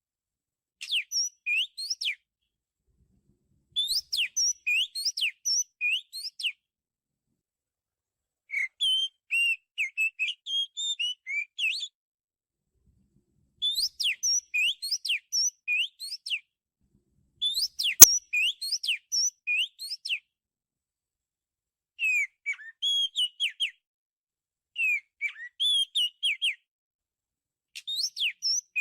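Oriental magpie-robin singing: about eight short phrases of quick, varied, high whistled notes, each separated by a pause. A single sharp click cuts in partway through.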